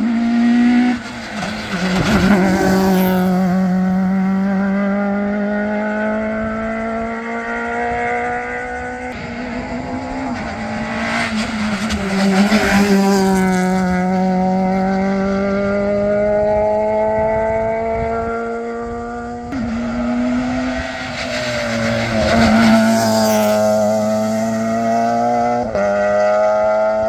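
Rally car engines at high revs as the cars pass on a special stage, with tyre squeal. There are three loud passes: one about two seconds in, one in the middle and one near the end, with the engine pitch changing sharply between them.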